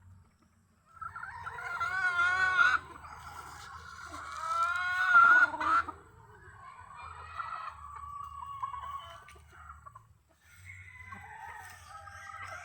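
Rooster crowing: two loud crows one after the other, followed by quieter calls and clucking from chickens.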